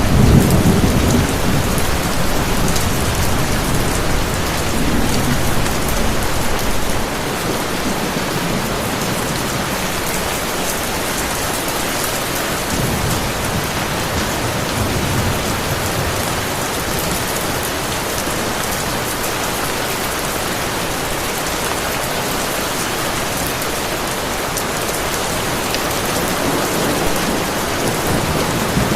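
Heavy rain pouring steadily, with low thunder rumbling during the first several seconds and then fading, leaving a faint distant rumble now and then.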